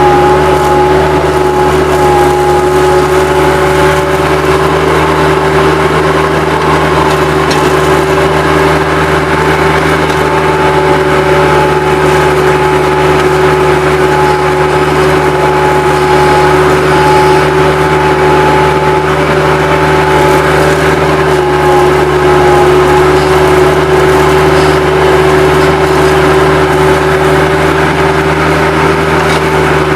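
Bobcat 763 skid-steer loader's diesel engine running steadily under work, with a steady whine over the engine sound.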